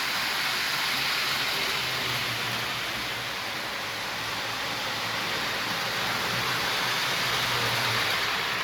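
Lionel Burlington F3 model diesel train running along the track, pulling its passenger cars: a steady rushing noise of wheels on rails, with a faint low hum underneath.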